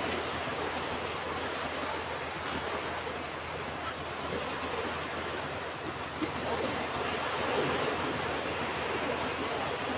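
Ocean waves washing onto a beach: a steady rush of surf that swells slightly in the middle of the stretch and eases again.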